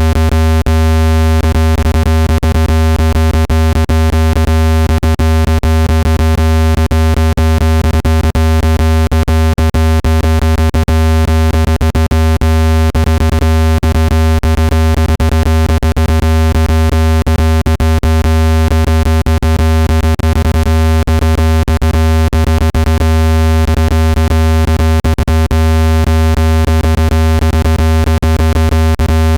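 Loud synthesized low-frequency speaker-cleaning tone: a steady deep buzz with many overtones, broken by frequent short clicks. It is played at full volume to shake dust out of a phone speaker.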